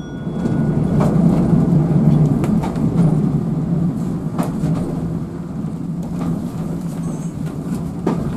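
Railway auto-coach running along the track, heard from inside its driving cab: a steady low rumble of wheels on rails, with a few scattered clicks over the rail joints.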